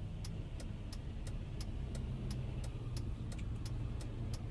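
Steady low rumble of a car heard from inside the cabin, with a faint, even ticking of about four or five clicks a second running over it.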